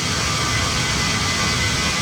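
Steady cabin noise of a Boeing 737 MAX 9 in flight: the rush of its CFM LEAP-1B engines and air flow as an even hiss, with several thin, steady whining tones on top.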